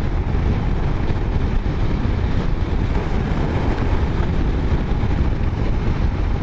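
Royal Enfield Himalayan's single-cylinder engine running steadily at road speed, mixed with wind rushing over the microphone.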